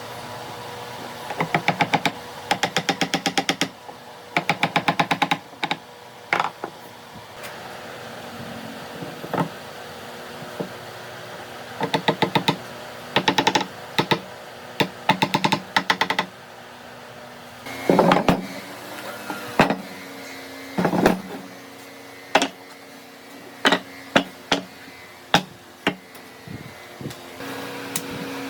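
Rapid runs of sharp taps on wood, about ten a second in bursts of one to two seconds, then single knocks a second or so apart, over a steady machine hum.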